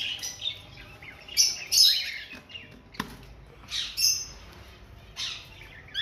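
Caged aviary birds, among them breeding cockatiels, giving short chirps and squawking calls at intervals, with a sharp click about three seconds in.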